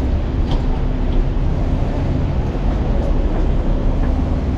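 Steady low rumble of vehicles, with a faint steady hum running through it.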